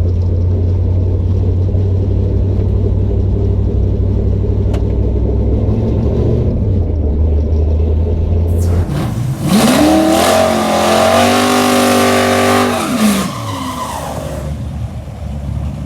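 A drag car's engine rumbling low and steady, then a hard launch about eight seconds in: the engine note climbs in pitch, holds at high revs down the track, then falls in pitch and fades as the car moves away.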